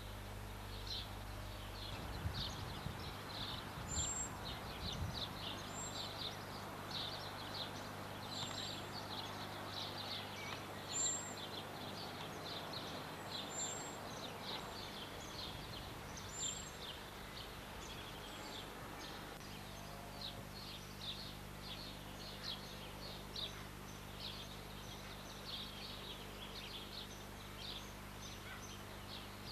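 Small birds singing and chirping in the trees, with a thin high note repeating every two or three seconds in the first half, over a steady low hum.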